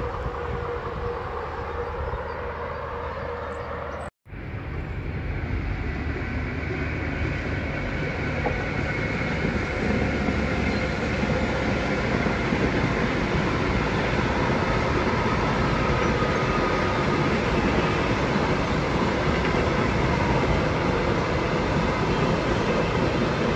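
A train running past on the railway: a steady rumble of wheels on track that slowly grows louder and holds. About four seconds in, the sound cuts out for a moment.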